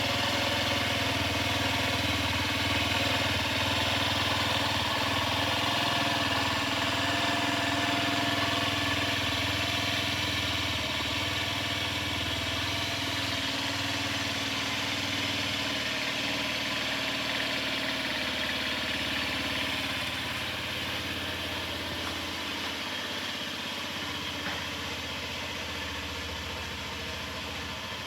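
Honda Zoomer scooter's 49 cc four-stroke single-cylinder engine idling steadily, slightly quieter over the last several seconds.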